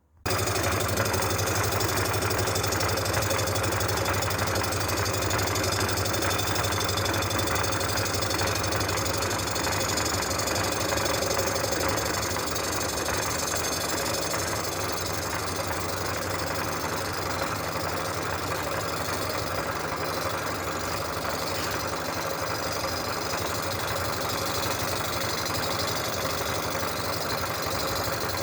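Cylinder-head surfacing machine starting up and running steadily through a cut across the exhaust face of an Oldsmobile V8 cylinder head, taking about 5 thousandths off to clean up rusted low spots. It comes on suddenly right at the start.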